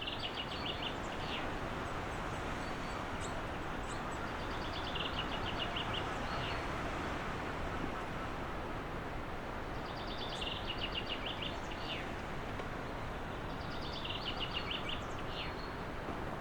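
A small songbird singing four times, each song a quick run of repeated high notes lasting about a second and a half, over a steady rushing background noise.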